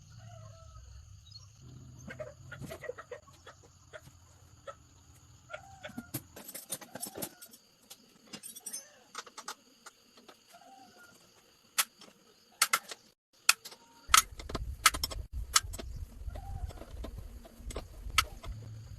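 Chickens clucking now and then, with a run of sharp clicks and knocks, loudest in the second half, over a low rumble.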